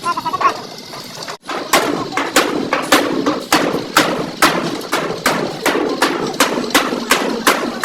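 Hammer beating a car's sheet-metal body panel in steady rhythmic blows, about three a second. The blows begin after an abrupt cut a little over a second in; this is panel beating to straighten accident damage.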